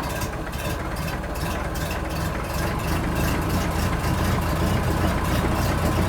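An engine or motor running steadily with a constant low hum, like a vehicle idling.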